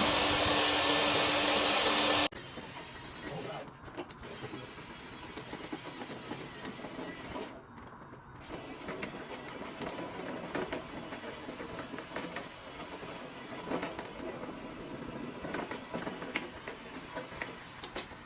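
A vacuum used for dryer-vent cleaning runs with a steady hum and cuts off suddenly about two seconds in. What follows is quieter: a rough, crackling scraping noise with small clicks, broken by two short gaps.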